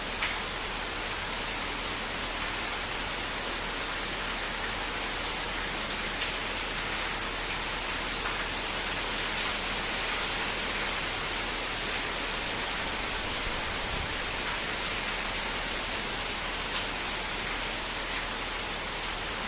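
Heavy rain pouring down steadily, an even, unbroken hiss with a few faint drop ticks in it.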